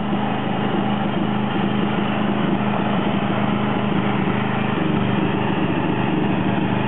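John Deere 111 lawn tractor's engine running steadily as the tractor drives off.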